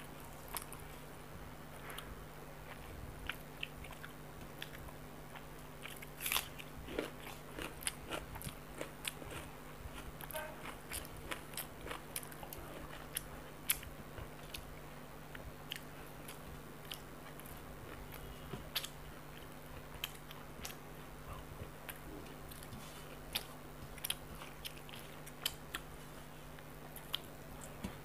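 Close-up eating sounds of chicken curry and rice eaten by hand: chewing, wet mouth smacks and scattered sharp crunches and clicks, over a faint steady hum.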